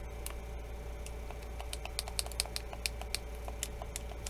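Light, irregular clicking of buttons being pressed, about four or five clicks a second, over a steady low hum.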